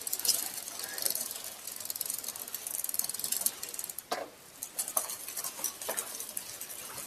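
Bicycle freehub ratcheting, a run of light clicks and rattles over a high hiss, with a few sharper knocks about four to six seconds in.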